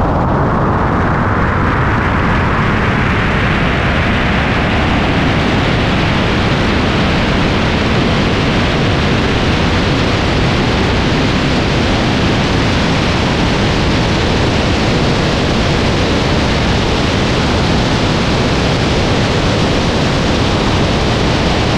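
A loud, steady rushing noise with no clear engine note, brightening over the first few seconds.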